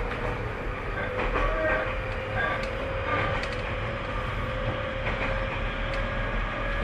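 Tobu 30000 series electric train running at speed, heard from on board: steady rumble of wheels on rail with a thin steady motor whine and scattered clicks as the wheels cross rail joints.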